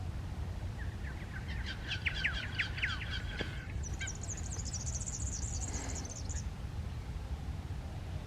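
Songbirds singing: a run of quick, falling whistled notes for a couple of seconds, then a high, rapid trill, over a steady low rumble.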